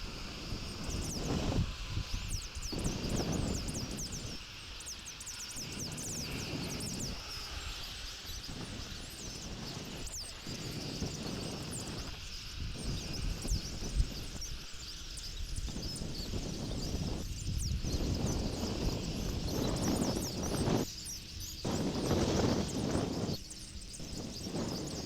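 Gusty wind rumbling on an outdoor nest-camera microphone, rising and falling in waves, with many short, high bird chirps scattered throughout.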